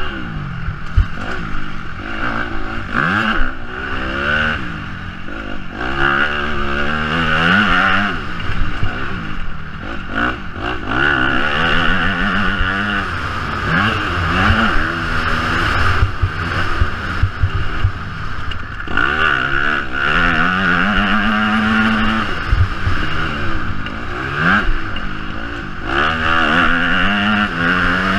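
Yamaha motocross bike's engine revving up and falling back again and again as it is ridden hard round a dirt track, heard from an on-board camera. Short knocks and rattles come from the bike over bumps.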